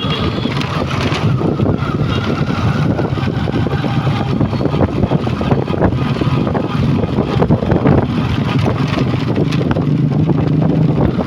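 A vehicle engine running steadily, with wind buffeting the microphone and scattered clattering.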